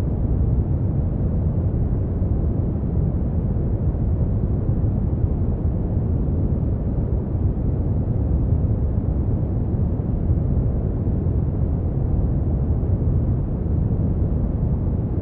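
Steady brown noise: an even, deep rumbling hiss with most of its energy in the low end and very little treble, unchanging throughout.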